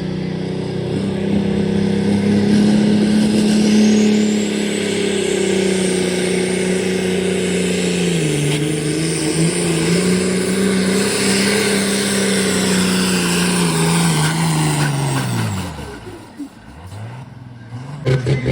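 Pulling tractor's engine running hard at full throttle through a pull, with a high whine that climbs in the first few seconds. The engine note sags a little about halfway through, then drops away sharply near the end as the throttle comes off. Just before the end it settles into a pulsing, lumpy idle.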